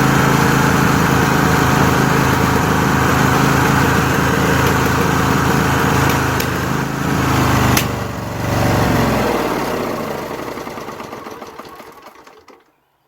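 Craftsman DLT3000 lawn tractor engine running steadily, then stumbling about eight seconds in and winding down to a stop over the next few seconds: it is running out of fuel with its fuel line disconnected.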